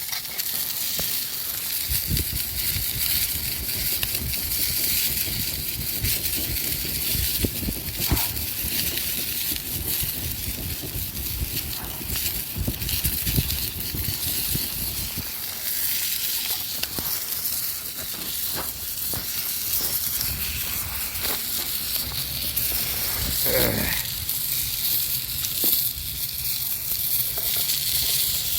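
Wood campfire cooking: a steady hiss of fire and sizzling with scattered crackles and pops, over a low rumble that starts about two seconds in.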